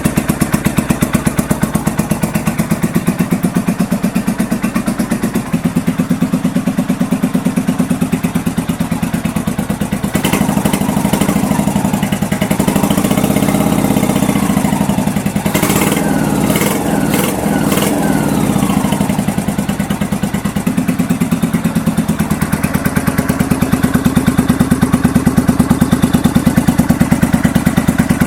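Honda VT750 Shadow's V-twin engine running at a steady, loping idle, freshly started after a top-end rebuild. About ten seconds in the revs rise and fall for several seconds, with a few sharp clicks, before it settles back to idle.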